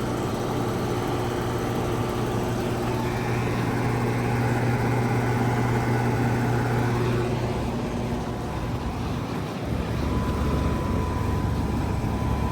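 Central air conditioner condensing units running, a steady compressor and fan hum. The hum fades about eight seconds in, and a deeper hum with a faint steady whine comes in about ten seconds in, as a unit cycles.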